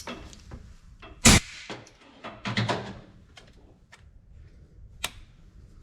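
Hand tools and parts being handled and set down: a loud sharp knock about a second in, a cluster of knocks and rattles a little later, and a single sharp click near the end.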